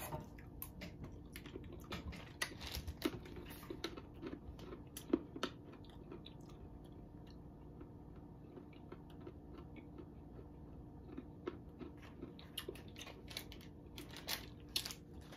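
A person chewing crunchy Japanese-style peanuts, the hard flour-coated peanuts sold in Mexico, with irregular crisp crunches. The crunches come thick in the first few seconds, thin out in the middle and pick up again near the end.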